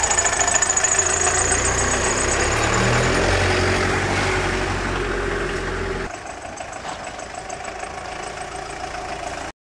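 Tata Indica hatchback's engine running as the car drives, its note rising about three seconds in, with a thin high whine over it at the start. The low rumble drops away abruptly about six seconds in, and the sound cuts off suddenly near the end.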